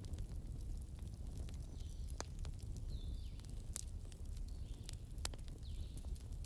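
Wood campfire crackling, with irregular sharp pops over a steady low rumble. A short, high, falling call repeats every second or two in the background.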